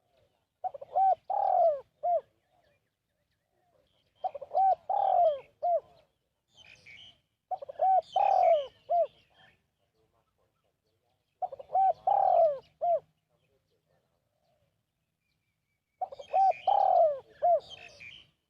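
Spotted dove cooing: five short phrases of three or four coos each, a few seconds apart. Small birds chirp faintly over some of the phrases.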